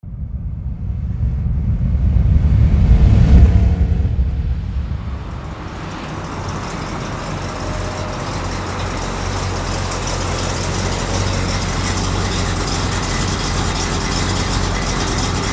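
A 1965 Chevrolet Corvette's 327 cubic-inch V8 running as the car drives up, loudest about three seconds in, then a steadier, quieter run.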